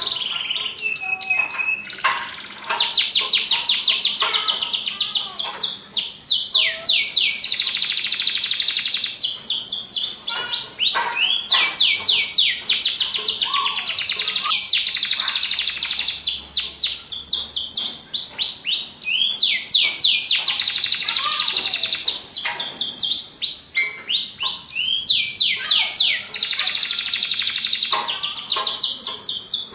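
Domestic canary singing nonstop in long trilled phrases. Each phrase is a rapid run of repeated falling notes, changing speed and pattern from one phrase to the next with only brief pauses between them.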